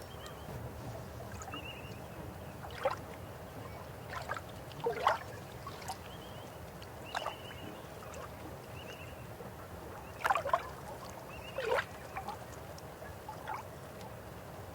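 River water flowing with a steady low rush, broken by irregular gurgles and plops. The loudest come about three and five seconds in and twice between ten and twelve seconds.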